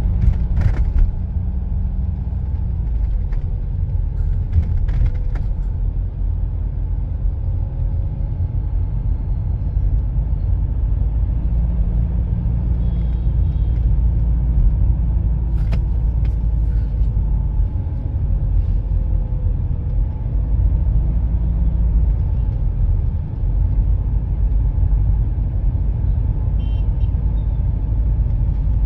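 Steady road rumble inside a moving Tata Harrier's cabin, with a few scattered rattling clicks from a door, a sign of a poorly fitted door panel.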